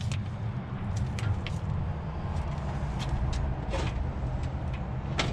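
Cockshutt 1850 tractor's Perkins diesel being turned over slowly by its starter without catching, a low steady churning with a few sharp clicks; the battery is weak, so it cranks sluggishly.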